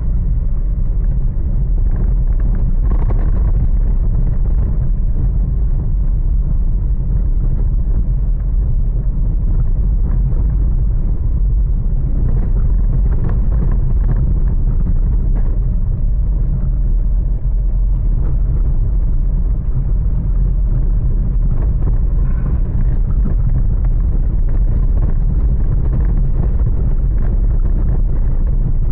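Storm wind and heavy rain, heard mostly as a steady, loud low rumble of wind buffeting the microphone.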